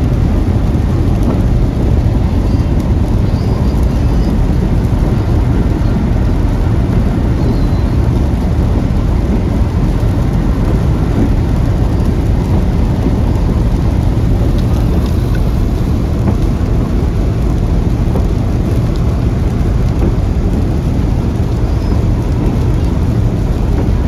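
A car driving through a rainstorm: rain and road noise make a steady low rumble.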